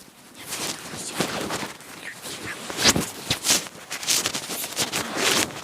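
Irregular crunching steps, about two a second, from walking over snow.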